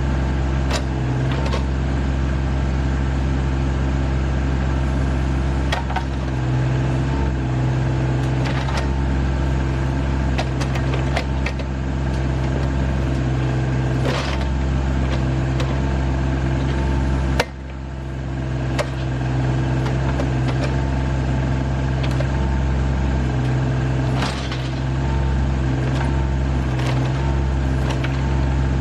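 Rural King RK25 subcompact tractor's diesel engine running steadily under backhoe work, with scattered short knocks and clanks as the bucket digs around the stump.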